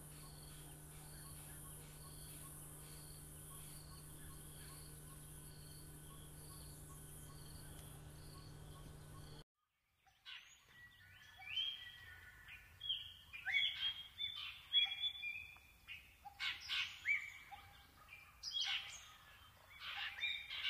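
Songbirds singing in varied whistled phrases, one after another. Before that, a faint steady hum with a regular high chirp about one and a half times a second, which cuts off suddenly about nine seconds in.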